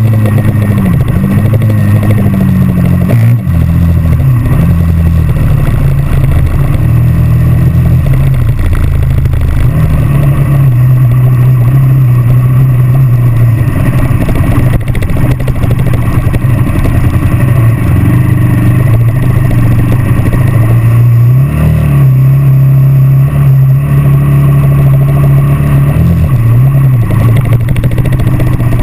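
Dirt bike engine running hard at a fairly steady pace, with its pitch dipping briefly and picking back up three times.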